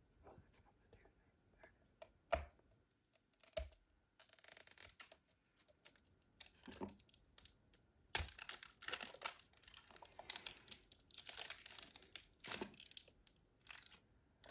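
Toy packaging being handled and opened: a few sharp clicks and taps, then plastic wrapping crinkling and tearing in quick crackly bursts, busier over the second half.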